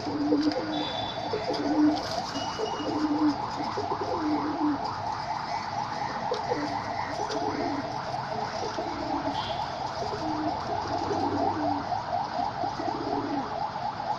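Pet doves and pigeons cooing: short low coos repeating about once a second, over a steady, busy background of rapid repeated chatter.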